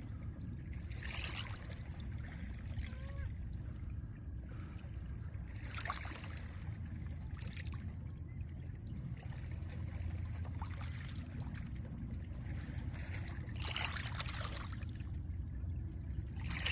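Small lake waves washing onto a pebble beach: a hissing surge of water over stones every few seconds, stronger near the end, over a steady low rumble of water and wind.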